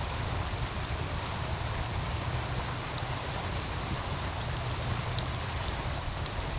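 Wood fire crackling, with scattered sharp pops and clicks, over the steady rushing of a meltwater stream and a low rumble.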